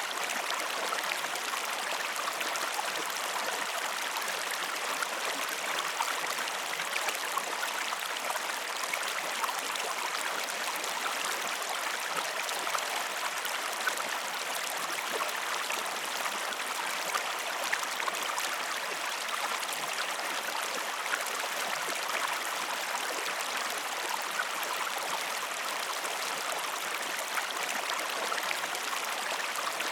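Water flowing steadily in a stream, an even rushing sound with small splashes scattered through it.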